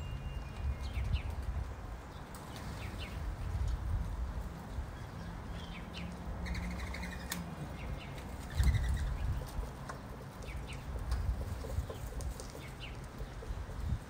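Small birds chirping in short, scattered high calls over a constant low rumble, with a louder low thump about two-thirds of the way through.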